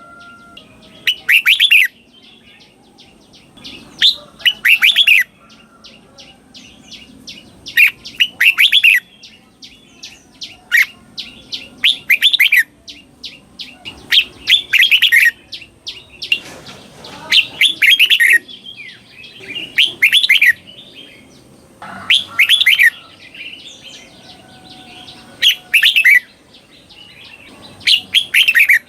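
Red-whiskered bulbul singing its doubled song: short, clear phrases repeated about every two to three seconds, with runs of quick short chirps between some of them.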